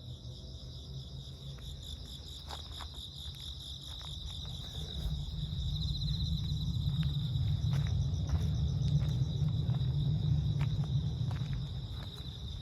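Insects trilling steadily in a continuous high, pulsing chorus. A low rumble swells in the middle and fades again near the end, with faint scattered clicks.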